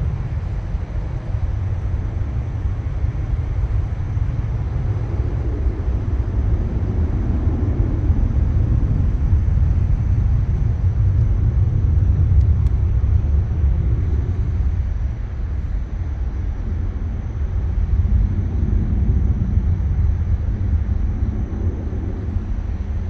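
Low rumble of an aircraft engine, swelling about a third of the way in and again near the end.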